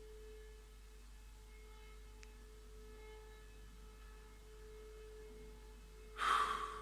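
Faint steady electrical tone with a low hum under it, heard in a pause of speech. Near the end, a short breath drawn in.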